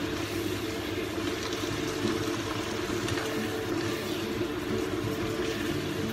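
Water spinach sizzling in a hot wok as it is stir-fried, with the spatula scraping and now and then tapping the pan, over a steady low hum.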